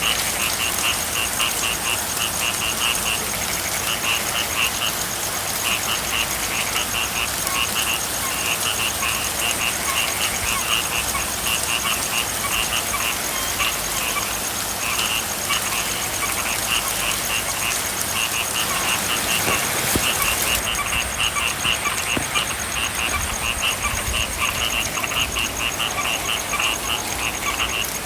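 Frogs calling in repeated rapid pulsed trills, one after another, over a steady hiss of rain.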